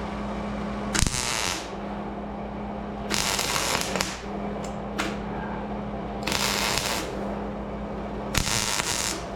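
MIG welder laying four short bursts of crackling weld on sheet-metal door panel, each under a second, over a steady low hum.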